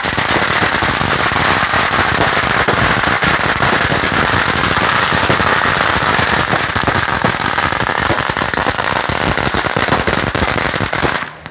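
Fireworks going off in a loud, dense, continuous crackle of rapid pops that stops abruptly near the end.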